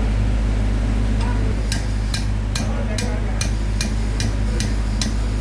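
A hammer striking metal in an even rhythm, about ten blows at roughly two and a half a second, beginning about a second and a half in, over the steady low hum of a running machine.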